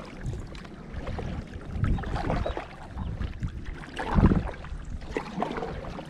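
Water splashing and sloshing around a fishing kayak, in uneven surges every second or so, the strongest about four seconds in.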